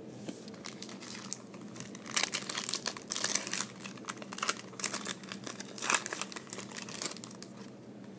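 Foil trading-card pack wrapper crinkling in clusters of crackles, from about two seconds in until near the end, as it is handled and opened.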